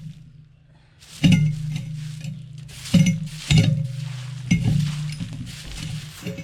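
A metal tool knocking and scraping while chicken manure is cleared out, about six sharp clinking knocks with ringing, over a steady low hum.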